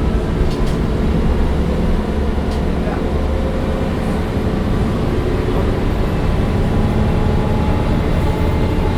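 Mercedes-Benz O405 N1 low-floor city bus under way, heard from inside the passenger cabin: its diesel engine and drive run steadily, with a few faint clicks of interior rattle.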